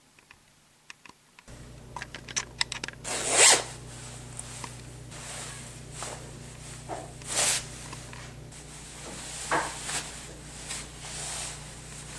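A zipper pulled in several short rasps, the loudest about three and a half seconds in, among light clicks and rustling, over a low steady hum that starts about a second and a half in.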